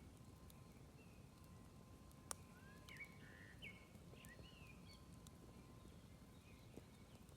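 Faint outdoor ambience around a smouldering campfire: a low steady rumble with a few sharp crackles, one louder pop about two seconds in. A bird gives a quick series of short chirps in the middle.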